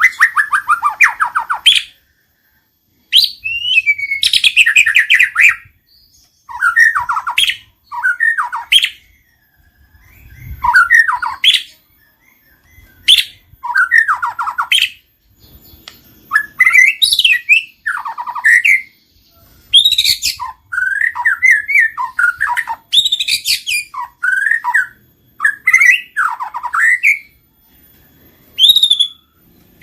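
White-rumped shama singing loud, varied phrases of rich whistles and rapid trills. The phrases come in bursts of one to two seconds separated by short pauses.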